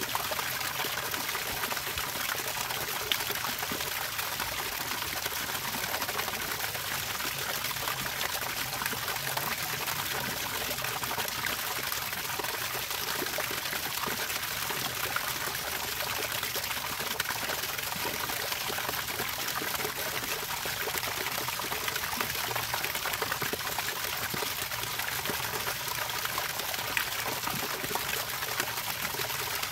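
Water running and trickling steadily, an even splashing hiss that does not pause.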